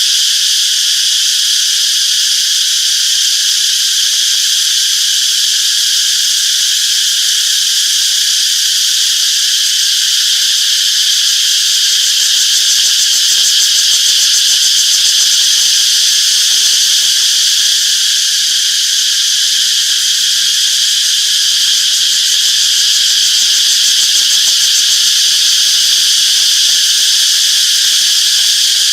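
A chorus of cicadas buzzing in one steady, unbroken high-pitched drone.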